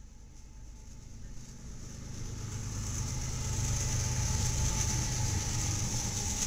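Diesel locomotives at the head of a BNSF freight train passing close by. The engine rumble and a high hiss of wheels on rail grow louder over the first few seconds as the units draw level, then hold steady.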